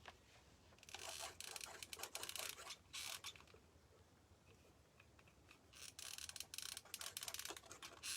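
Two spells of fast, faint clicking and crackling, each about two seconds long, from hot-gluing small pieces onto a birdhouse: the glue gun's trigger working and the pieces being handled and pressed into place.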